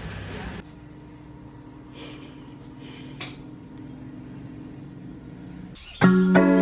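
Quiet background ambience with a low steady hum and a faint click about three seconds in, then plucked guitar music starting suddenly near the end.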